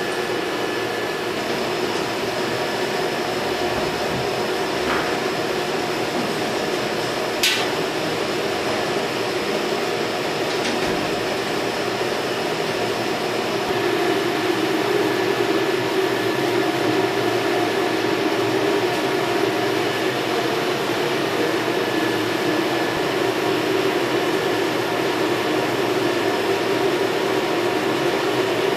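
Steady mechanical hum with several held tones, like a fan or cooling unit running. There is one sharp click about seven and a half seconds in, and the hum grows a little louder about halfway through.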